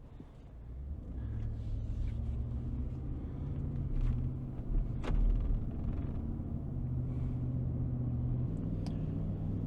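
Truck engine and road noise heard while driving: a steady low drone that fades in at the start, with its tone shifting slightly near the end and a couple of brief knocks partway through.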